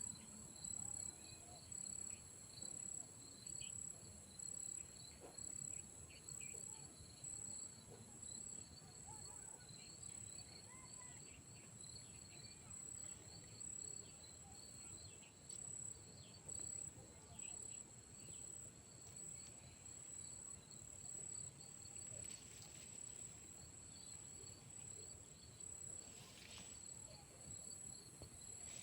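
Insect chorus of crickets and similar insects: several overlapping high-pitched trills held steady, one of them pulsing about once a second.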